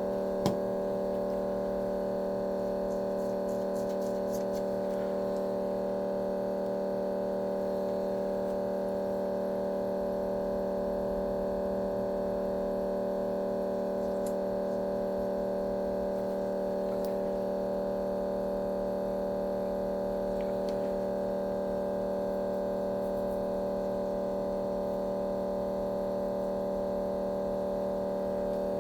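A steady electrical hum made of several held tones that stays unchanged throughout, with a few faint clicks.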